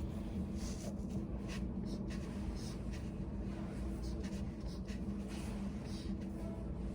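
Pen writing on paper in short, irregular scratchy strokes over a steady low room hum.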